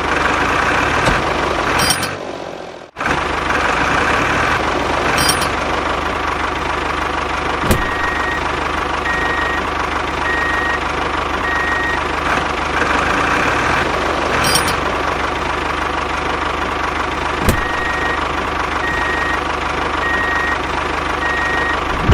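Homemade mini tractor running with a steady engine-like noise that briefly cuts out about two seconds in, then carries on. Two sharp clicks come later, and a high electronic beep repeats about once a second in two runs of four, like a reversing alarm.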